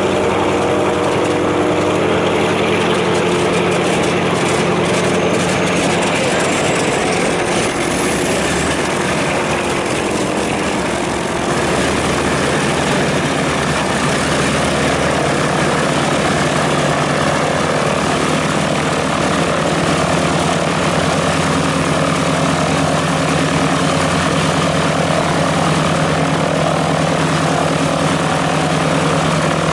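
Lockheed Lodestar's radial piston engines running with propellers turning. The steady engine note shifts about twelve seconds in, then settles into an even hum.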